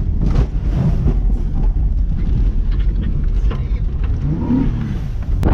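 Honda Accord's 3.0 V6 engine running under load as the car is driven off-road, with a heavy low rumble and scattered knocks; the revs rise and fall about four seconds in.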